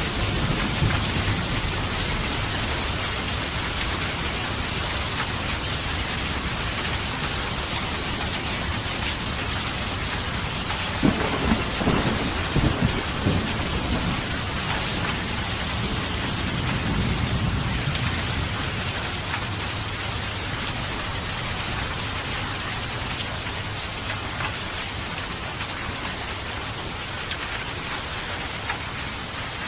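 Steady heavy rainfall with rolling thunder: a low rumble at the start, a sharper burst of thunder cracks about eleven seconds in, then more rumbling that fades as the rain carries on.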